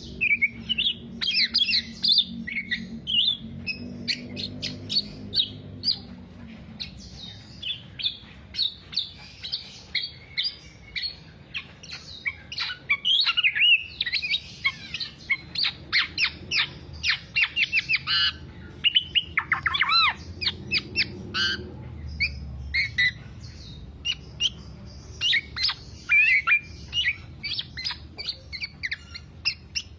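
Black-naped oriole (kepodang) singing without pause: a rapid, continuous run of chirps, whistles and harsher notes, with a cluster of looping whistles about twenty seconds in.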